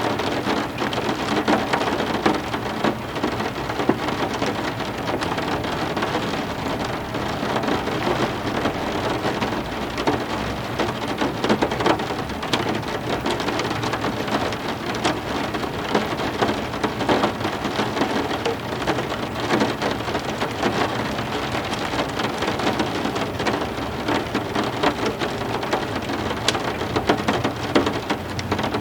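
Steady heavy rain, with many close drops splashing and a low thunder rumble beneath.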